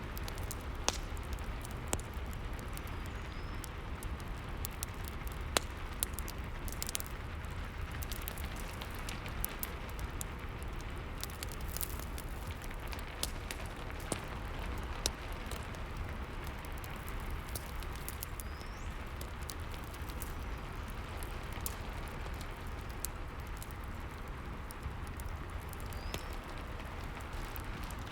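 Rain and a crackling fireplace together: a steady hiss of rain with irregular sharp pops and crackles of burning wood.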